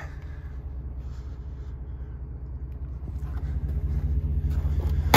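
Jaguar XJS V12 engine idling with a steady low rumble that grows louder about three seconds in, then a single sharp knock right at the end.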